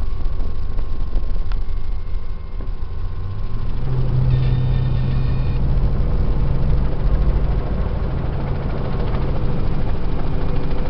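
Helicopter engine and rotor running: a loud, steady low drone. A deeper steady tone comes in about four seconds in, and a brief high tone sounds around five seconds.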